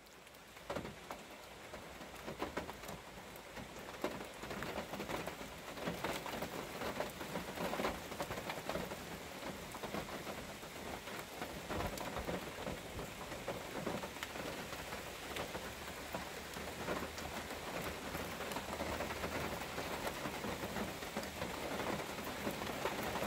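Rain falling hard, a dense hiss crowded with separate drops striking close by, growing steadily louder into a downpour.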